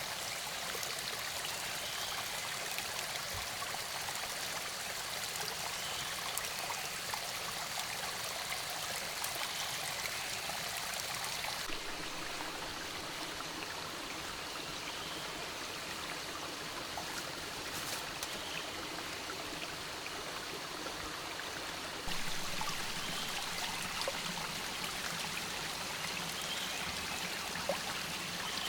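Steady rushing water: a continuous even noise that shifts abruptly in tone twice, about 12 and 22 seconds in.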